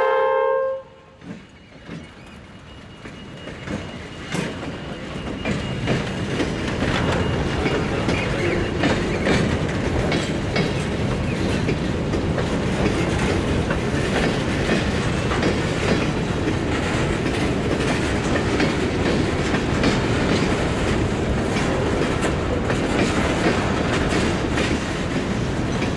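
A locomotive horn cuts off about a second in. Then a slow freight train's boxcars and hoppers roll past, a steady rumble with wheels clicking over the rail joints that builds over the first few seconds and then holds.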